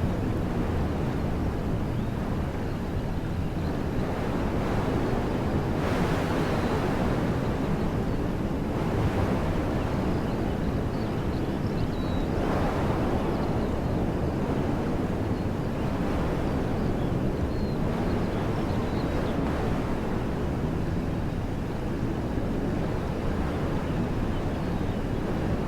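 Wind blowing through woodland trees: a steady rushing that swells in gusts about six, nine and twelve seconds in.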